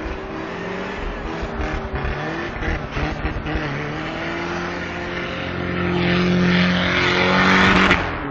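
Toyota Tacoma pickup's engine revving hard while its tires spin in deep snow, the truck stuck in a ditch. The revs climb and the tire-and-snow rush builds to its loudest near the end, then the throttle is let off abruptly.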